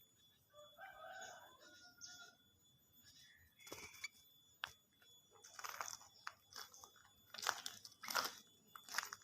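A small pet bird bathing, with brief fluttering splashes in quick irregular bursts, most of them in the second half.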